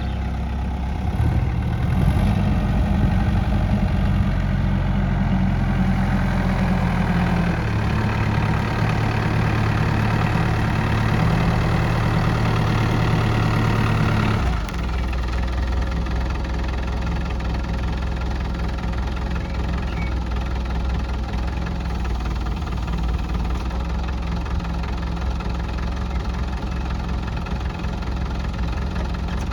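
Jelau 3504D truck's engine running at raised revs, then dropping back to a steady idle about halfway through.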